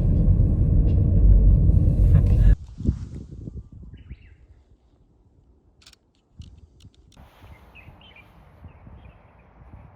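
A loud low rumble, like a vehicle, that cuts off suddenly about two and a half seconds in. Quiet outdoor ambience follows, with a few sharp clicks and faint bird chirps near the end.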